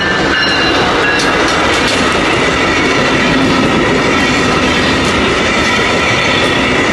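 Brightline passenger train passing close by over a street crossing: a loud, steady rush and rumble of its wheels on the rails, with some clacking.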